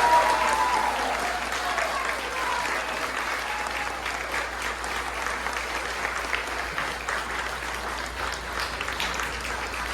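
Audience applauding, gradually dying down. In the first second or so, the last held note of a haegeum (Korean two-string fiddle) fades out under the clapping.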